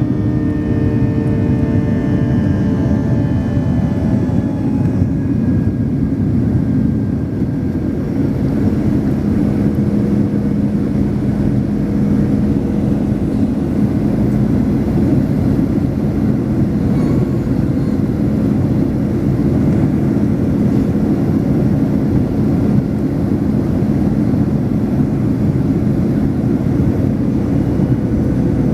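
Jet engines of a Boeing 737-800, CFM56-7B turbofans, heard from inside the cabin as a loud, steady rumble. A few pitched tones slide slightly down over the first few seconds, then a steady low hum holds under the noise.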